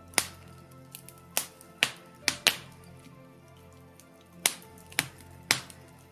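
Birch-log fire in a fireplace crackling, with sharp pops about every half second to second, about eight in all, the loudest near the start and around the middle.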